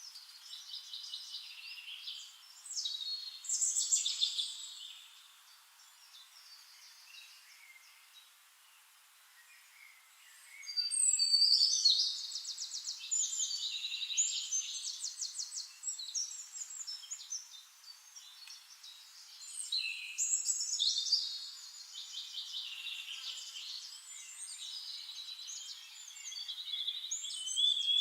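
Birds singing in bursts of fast trills and chirps. The song drops away for about five seconds, then comes back at its loudest.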